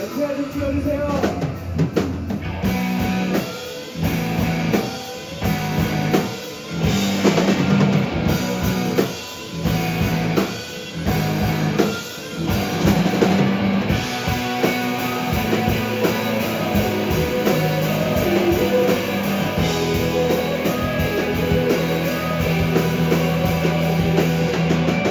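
Rock band playing live on drum kit and guitar, with a run of short stop-start breaks in the first half, then playing straight through.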